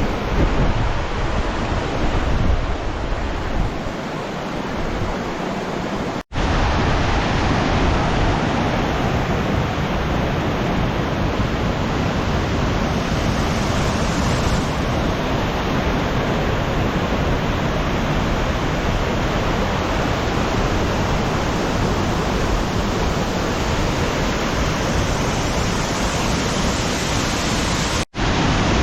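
Waterfall rushing as a steady, dense hiss of falling water, with wind buffeting the microphone for the first few seconds. The sound cuts out for an instant at about six seconds and again near the end.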